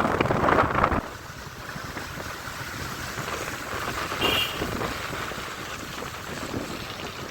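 Wind buffeting the microphone over the road noise of a moving motorcycle. It is loud for the first second, then drops suddenly to a steadier, quieter rush. A short high beep sounds about four seconds in.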